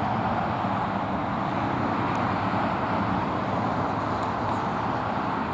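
Steady hum of road traffic, easing off slightly near the end.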